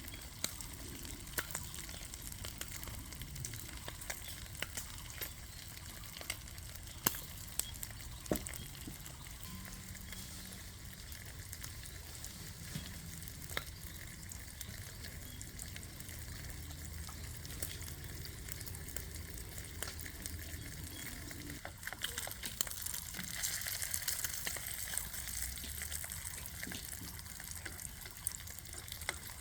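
Food frying and sizzling in a pan, with scattered light clicks; the sizzle gets louder about three-quarters of the way through.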